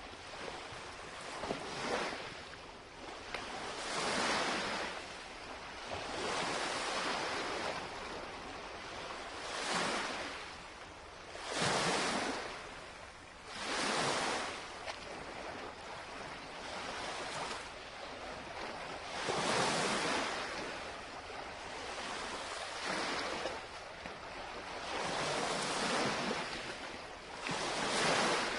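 Small lake waves lapping and breaking on the shoreline, a swell of washing surf every two seconds or so.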